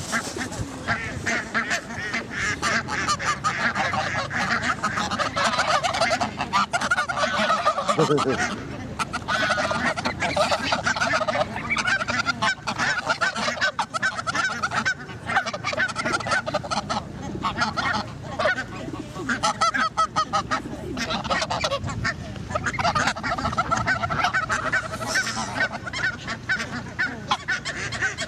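A flock of geese honking continuously, many short overlapping calls.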